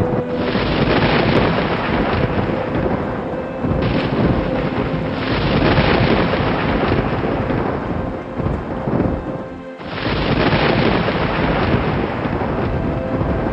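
Thunder rumbling in long rolls over steady rain, swelling three times with a brief lull a little before ten seconds. Soft ambient music holds long sustained notes underneath.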